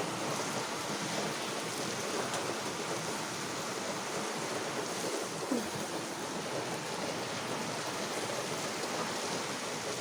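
Steady downpour of rain, an even hiss with no breaks.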